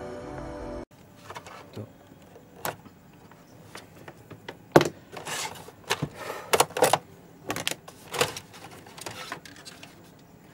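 Music cuts off abruptly about a second in, followed by scattered, irregular clicks, knocks and rustling of objects being handled.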